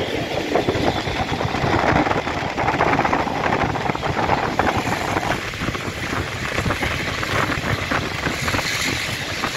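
Blue Train passenger carriage running along the track, heard from on board: a steady, loud rumble and rattle of wheels and coach, with many small clacks.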